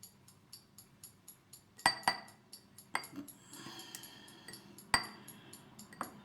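Sharp clinks of a teaspoon and a shaving brush against small bowls, about five spread through, over a faint ticking about four times a second.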